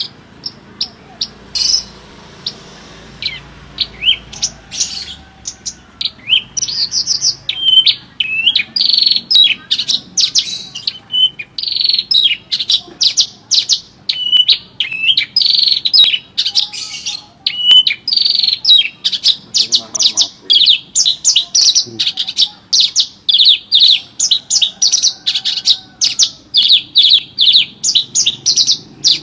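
Horsfield's bush lark (branjangan) in full song. It starts with scattered high chirps, then from about six seconds in runs into a fast, unbroken stream of sharp chirps and trills.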